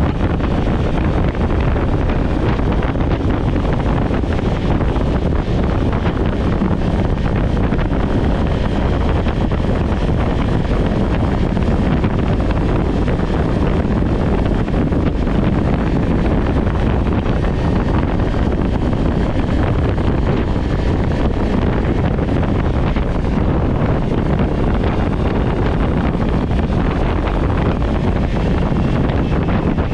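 Steady wind rush on a GoPro's microphone at riding speed, mixed with a Kawasaki Ninja 400's parallel-twin engine running, constant throughout with no gear changes or revving standing out.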